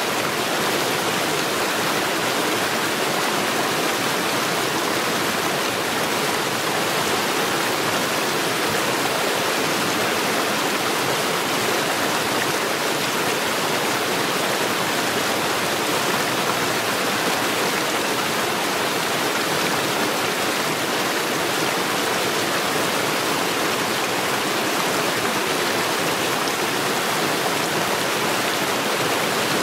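Mountain stream rushing over stones, a steady loud wash of flowing water with no change.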